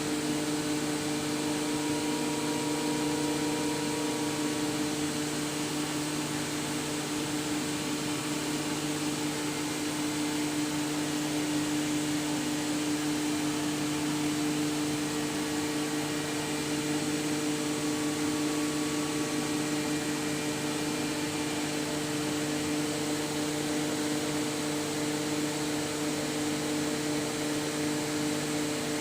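Heller MC16 CNC horizontal machining center running: a steady hum of a few constant low tones over an even hiss, with no breaks or changes.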